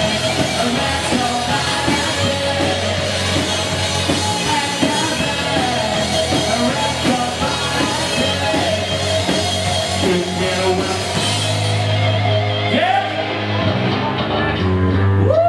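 Live rock band playing with singing, drums and guitars, loud and dense. About two-thirds of the way in the drum hits drop out and a low note is held as the song winds down.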